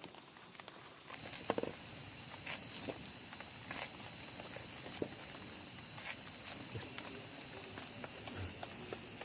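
Forest insects keeping up a steady, high-pitched continuous buzz; about a second in, a louder and slightly lower drone takes over. Scattered light ticks and taps sound underneath.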